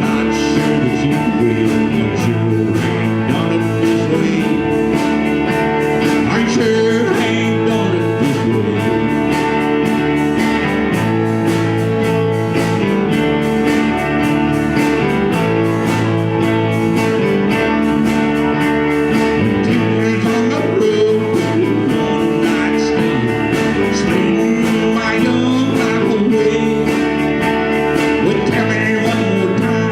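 A band playing a country-blues song with guitar over a steady beat, and singing in places.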